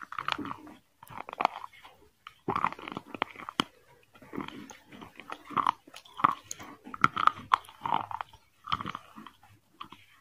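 Close-miked chewing and biting of chicken biryani eaten by hand: wet, crunchy chews that come in bursts about once a second, with sharp clicks of teeth and lips in between.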